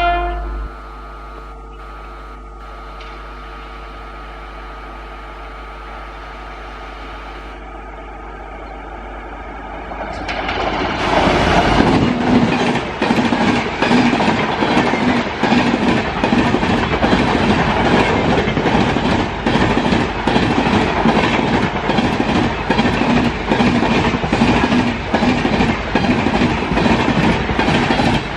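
Indian Railways express train, an electric locomotive hauling passenger coaches, passing at high speed. A horn blast cuts off about half a second in, then a lower rumble builds as the train nears. From about ten seconds in the coaches pass close with a loud, rapid clickety-clack of wheels over the rail joints.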